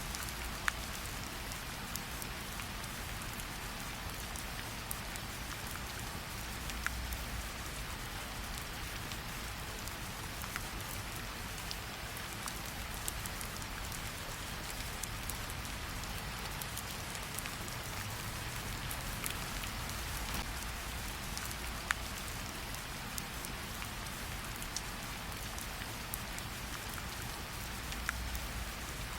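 Steady rain falling, with a low rumble underneath. A handful of sharp single pops from a crackling wood fire are scattered through.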